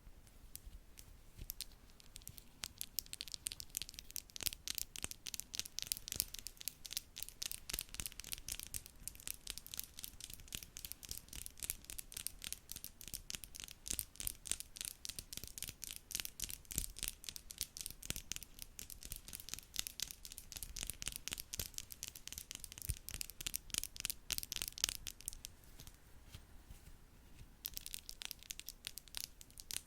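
A makeup brush worked rapidly over the microphone: a dense, scratchy rustle of many quick strokes, with a short pause near the end.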